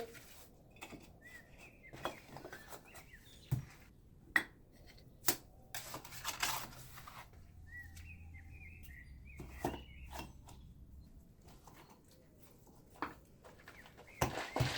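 Scattered knocks, clacks and a scrape of stone and hand tools as limestone is worked and set into a wall, the loudest a sharp knock about four seconds in. A small bird chirps in the background twice, first early on and again around the middle.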